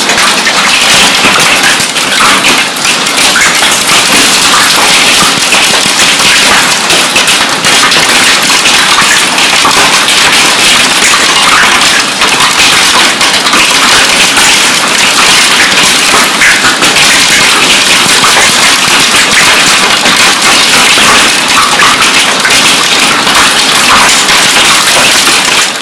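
Hail and heavy rain pelting down: a loud, dense clatter of countless hard hailstone impacts over a steady rush of rain.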